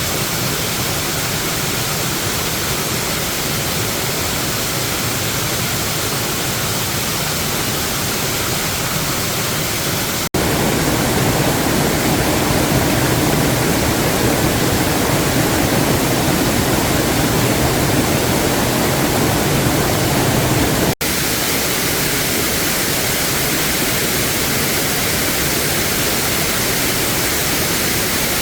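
Steady roar of rushing water from a waterfall. It breaks off abruptly twice, about ten and twenty-one seconds in; the middle stretch is louder and deeper.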